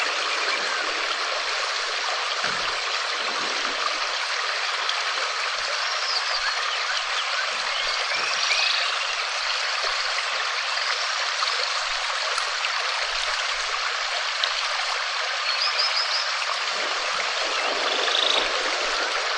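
Steady rain, an even hiss, with faint chirping calls now and then.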